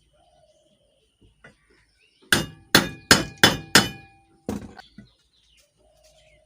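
Hammer blows on metal: five hard ringing strikes in quick succession, about three a second, then a lighter one. The blows are driving a ceiling fan's bearing out of its wax-packed housing.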